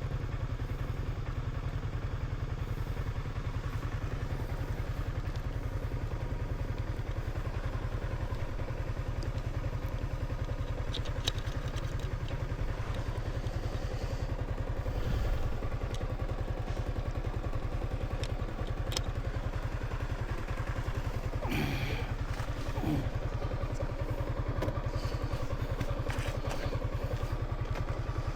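Small motorcycle engine running steadily at low revs, with a few scattered knocks and rattles.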